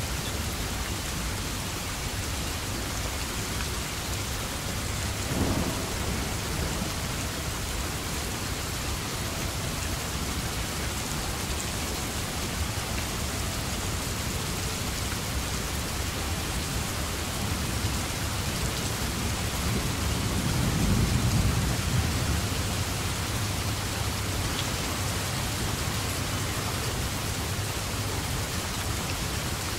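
Steady rain falling, with thunder rumbling low: a short swell about five seconds in and a longer, louder roll around twenty seconds in.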